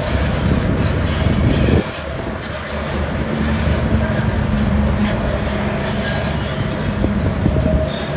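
Heavy diesel construction machinery running under load, with metallic clanking. The engine note drops about two seconds in, then rises to a held, steady pitch.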